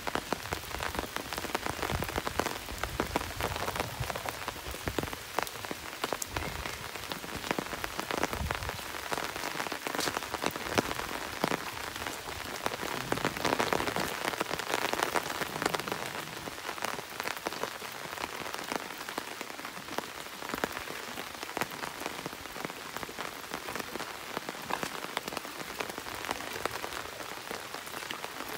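Steady rain falling, a dense patter of many individual drops hitting. A low rumble lies under it for the first eight seconds or so.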